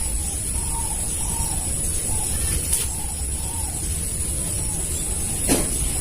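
Spotted dove cooing faintly, a run of repeated low arched notes through the first half. Underneath are a low wind rumble and a steady high-pitched whine, and there is one sharp click near the end.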